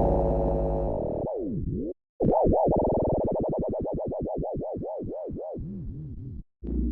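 Synthesizer sounds being auditioned. A sustained low chord plays first, then the pitch dips and comes back up. After a brief stop, a tone swoops up and down over and over, about four times a second, fading before it cuts off near the end.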